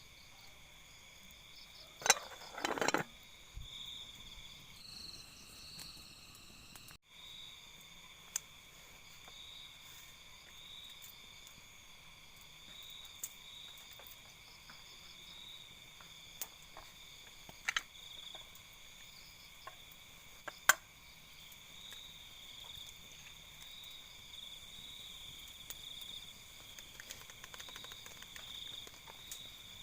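A steady chorus of night insects in the forest, several high, unbroken trilling tones running together, briefly cut off about seven seconds in. A few sharp clicks or clinks of cooking utensils stand out over it, about two to three seconds in and again near eighteen and twenty-one seconds.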